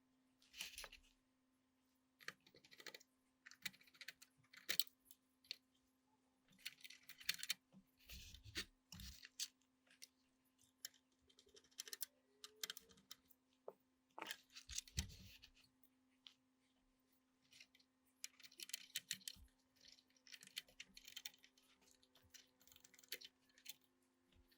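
Scattered small clicks, taps and scraping of hard objects being handled, in irregular clusters with a couple of dull thuds, over a steady low hum.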